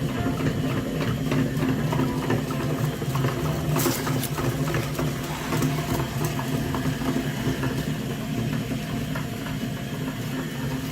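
A small motor running steadily with a fast whirring gear rattle, and a sharp click about four seconds in.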